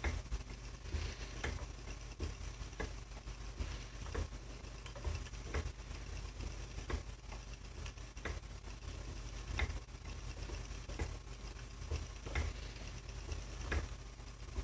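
Spinning wheel being treadled, with a click repeating evenly about every one and a half seconds.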